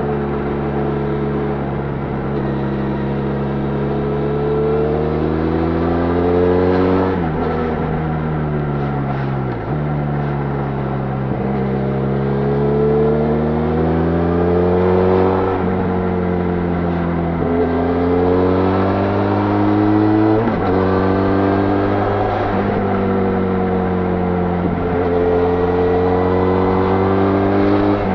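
Benelli Leoncino 500's parallel-twin engine through its stock exhaust, ridden hard: the engine note climbs under acceleration and drops back again and again, with quick breaks at the gear changes.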